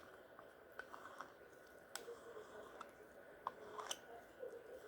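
Faint, scattered clicks and light taps of small plastic craft items being handled while working with resin, a few sharper ticks about two and four seconds in.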